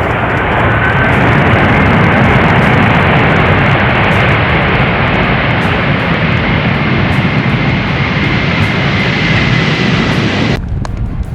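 Jet airliner's engines running loud and close, a steady roar with a faint high whine over it, that stops abruptly near the end.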